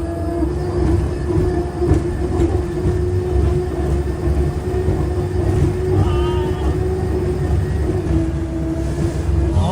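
Turbine-powered race boat running steadily: a constant droning tone over a heavy low rumble.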